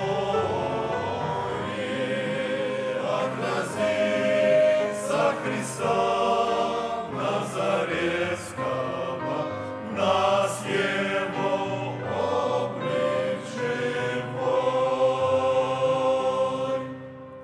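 Men's choir singing a Russian hymn, closing on a long held chord that dies away near the end.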